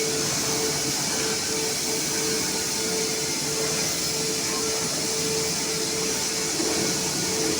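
CNC laser machine running: a steady hiss of air and fan noise, with a tone that pulses on and off about twice a second.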